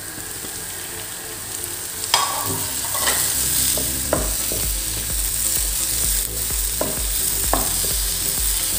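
Onion masala frying in oil in a pan, sizzling steadily, while a spoon stirs it and knocks sharply against the pan about five times.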